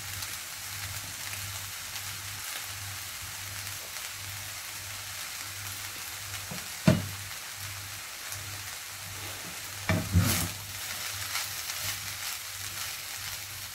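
Chicken and egg fried rice sizzling steadily in a frying pan, with a low hum pulsing on and off underneath. A single sharp knock comes about halfway through, a few clacks follow around ten seconds in, and near the end a wooden spatula stirs through the rice.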